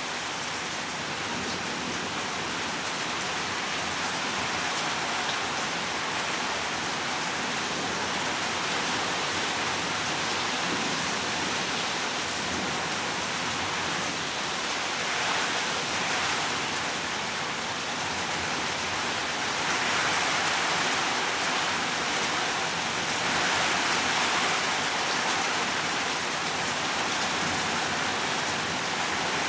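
Heavy rain pouring down steadily, swelling louder a few times in the second half.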